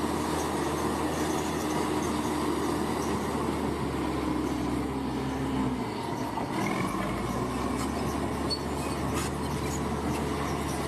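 Large crawler bulldozer's diesel engine running steadily, with its steel tracks squealing and clanking. The engine note shifts about halfway through, followed by a short squeal and a few sharp clanks.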